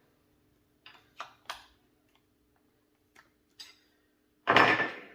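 Light clicks and taps of parts being fitted back on by hand, a few scattered over the first few seconds, then a louder half-second clatter about four and a half seconds in. A faint steady hum lies underneath.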